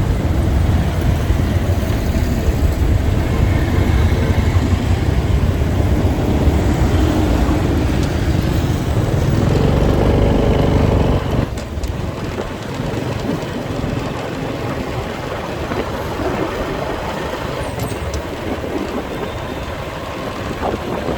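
Motorbike riding through city traffic: steady engine and road noise with a heavy low rumble that eases suddenly about halfway through.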